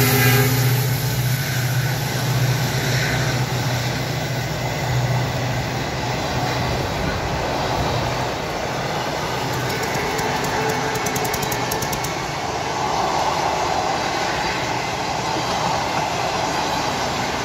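Passenger train running past on the adjacent track: a steady noise of coaches and wheels on the rails, with a low hum that fades over the first few seconds.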